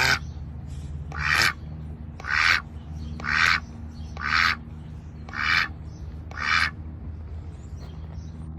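A duck quacking, seven loud single quacks about a second apart, over a steady low hum.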